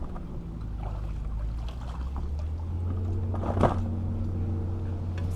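A low, steady motor hum that grows stronger about halfway through, with light water sounds and a single knock about three and a half seconds in.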